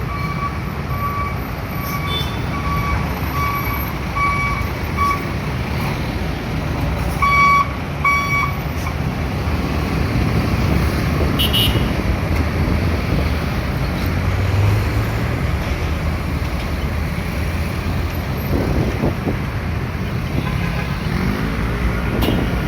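Heavy truck traffic running past with a steady low rumble. A reversing alarm beeps at an even pace through the first several seconds, ending with two louder beeps.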